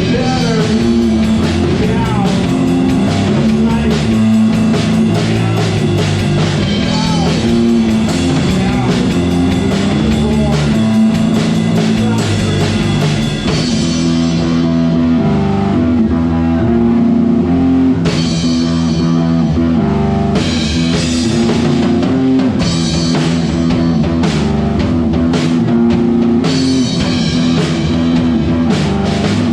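Live indie/punk rock band playing loudly: electric guitars, bass and drum kit. The cymbals ease off for a few seconds about halfway through, then come back in.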